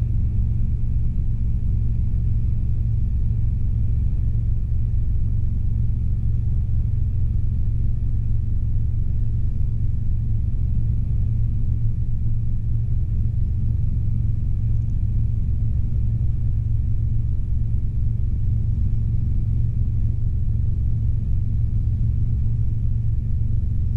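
Steady low drone of a Robinson R22 helicopter's engine and rotors in flight, heard from inside the cockpit, with a faint high steady whine above it.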